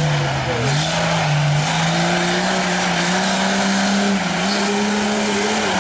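Diesel race buggy's engine running hard under load during a run, its pitch climbing in steps and dropping abruptly about four seconds in.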